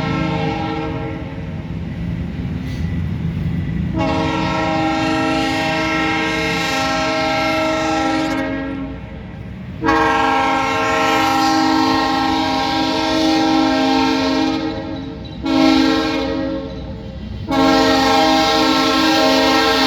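A GE diesel freight locomotive's air horn sounds two long blasts, one short blast, then another long blast, the pattern of a grade-crossing warning, over the steady low rumble of the diesel locomotives and train.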